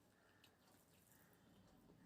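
Near silence with faint, soft eating sounds: a few light clicks and squishes of chewing.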